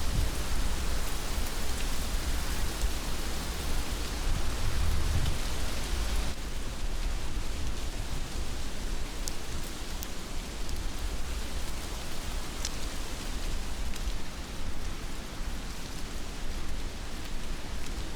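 Heavy rain falling steadily, an even hiss over a low rumble, with now and then a single drop ticking close by. About six seconds in, the high part of the hiss drops a little.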